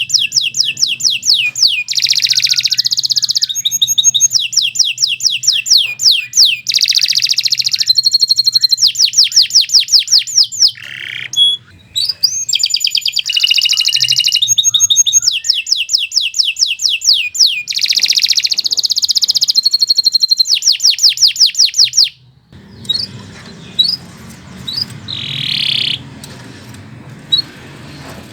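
Domestic canary singing a long, unbroken song of fast high-pitched trills, rolling phrases and held whistled notes. About 22 seconds in the song breaks off, leaving only a few scattered short chirps before it starts again at the very end.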